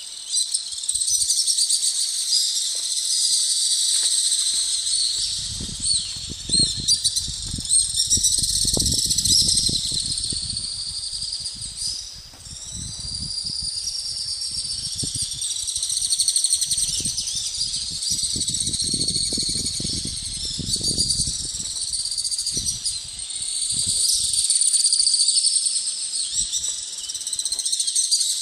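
A dense chorus of insects chirring continuously at a high pitch. From about five seconds in to about twenty-two seconds in, it is joined by intermittent low rumbles.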